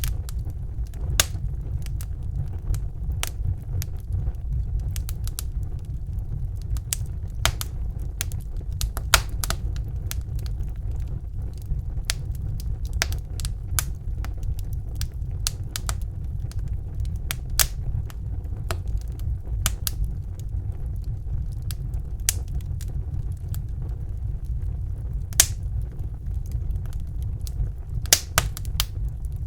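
Fire crackling in a fireplace: irregular sharp pops and snaps, a few of them louder, over a steady low rumble.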